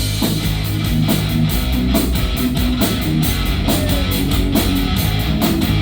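Live rock band playing an instrumental passage between sung lines: electric guitar over a drum kit, with a steady beat.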